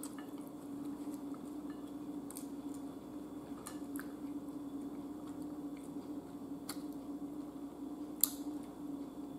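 Close-miked chewing of ribeye steak, with a few soft clicks, the sharpest about eight seconds in, over a steady low hum.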